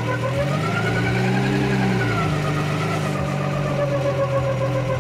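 The Ford 3.0-litre V6 of a 1977 TVR 3000M running as the car is driven slowly forward. The engine note rises briefly about a second in, then settles back to a steady low-speed note.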